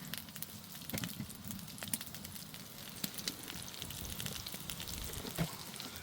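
Food sizzling on a stone slab heated over a wood fire, with many small sharp crackles and pops.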